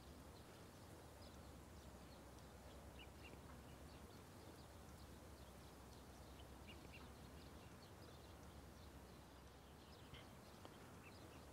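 Near silence: faint outdoor ambience with scattered short, faint bird chirps.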